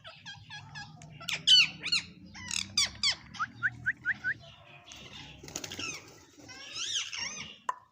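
Parrot chattering and squawking in quick, high-pitched chirps and calls, with a run of four short rising whistles about three and a half seconds in and harsher squawks near the end.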